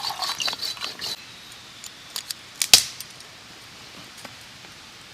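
Water pouring into a container stops about a second in, followed by a few light metallic clinks and one sharper metal clank near the middle as metal camping gear is handled.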